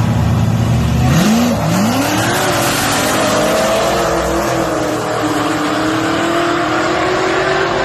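A car launching hard in a drag race. The engine revs up in two quick rises through the gears about a second in, with a sudden rush of noise. Its pitch then climbs steadily as it accelerates away.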